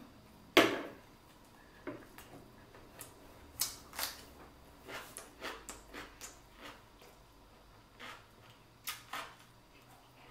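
Close-miked eating sounds: a bite about half a second in, then chewing with scattered short, sharp mouth clicks and smacks.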